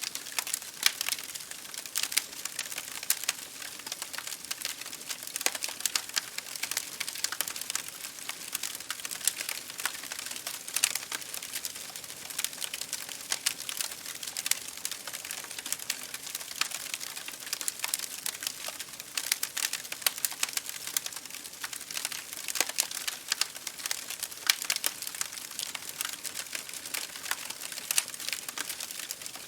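Wood fire crackling in a fireplace, with dense irregular pops and ticks over a steady hiss, mixed with rain hitting a window pane.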